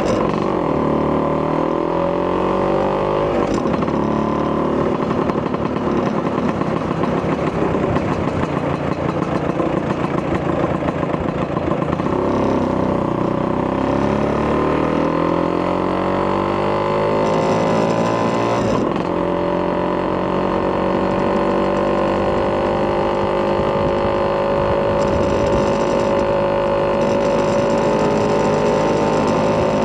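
Vespa PX200 scooter's single-cylinder two-stroke engine, bored to 210 cc with a Polini kit and running through a Malossi expansion-chamber exhaust, under way and revving. Its pitch falls and climbs again several times, then rises slowly and steadily near the end.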